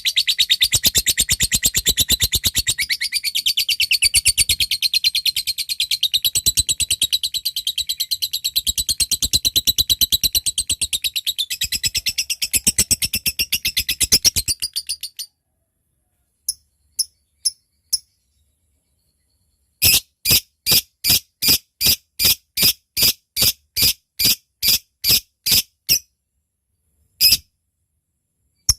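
Lovebird giving a long, very rapid chattering trill that stops abruptly about halfway through, then a few single sharp chirps. A run of evenly spaced chirps follows at about two a second, then one last chirp.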